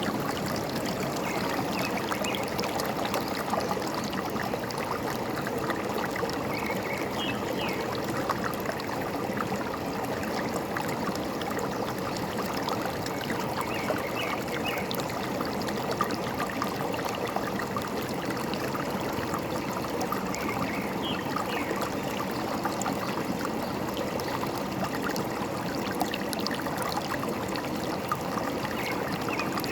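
Forest stream flowing steadily, with a few faint bird chirps now and then.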